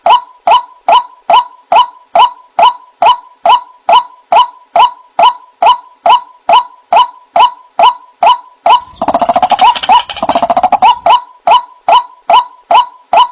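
White-breasted waterhen (ruak-ruak) calling: a long, even series of short, identical notes, about two to three a second. About nine seconds in there is a denser stretch of overlapping, chattering calls, and then the steady series resumes.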